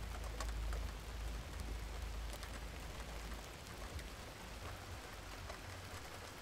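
Steady rain with scattered drop ticks, over a low rumble that is strongest in the first second or two.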